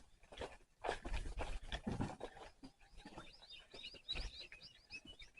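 A small bird chirping in a quick series of short high notes through the second half, over irregular rustling and light knocks in the first half.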